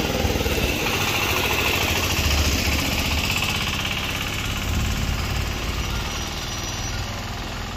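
Hero 100cc motorcycle's single-cylinder engine running steadily with a low rumble, growing gradually fainter over the last few seconds.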